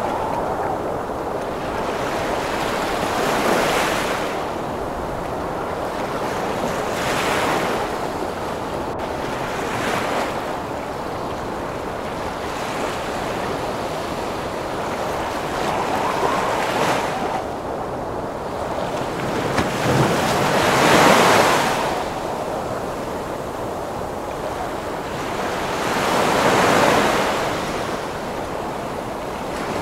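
Heavy ocean waves breaking over a steady rush of storm wind, each wave swelling up and washing away every four to six seconds.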